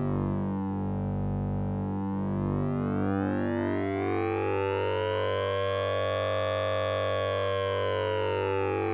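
Synthesized sync and ring-modulated tone from the Orange Vocoder plugin: a steady low drone under a dense, buzzy layer of overtones. The overtones sweep slowly down, climb to a peak about two thirds of the way through, and start falling again near the end, like a slow siren.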